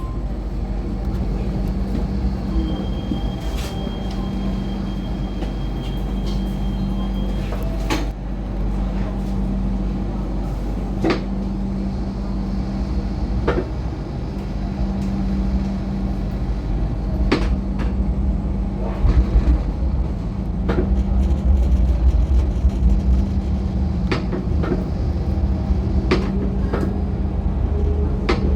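MTR Light Rail car running along the track, heard from inside: a steady low rumble with a constant hum, and sharp clicks now and then. A thin high tone sounds for a few seconds early on.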